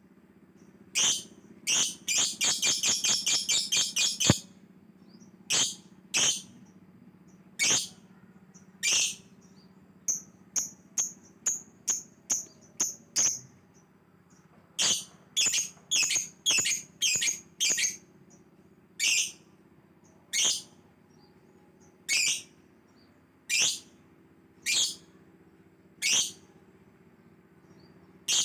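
Yellow lovebird chirping: sharp, high chirps roughly one a second, with a fast run of chirps about two seconds in and quicker clusters in the middle. A faint steady low hum runs underneath.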